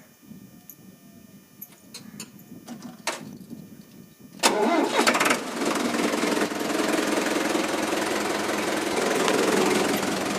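Sonalika WT 60 tractor's diesel engine being started: a few clicks, then about four and a half seconds in it catches suddenly and runs steadily. It is being test-run to check that the freshly refitted exhaust silencer no longer leaks smoke.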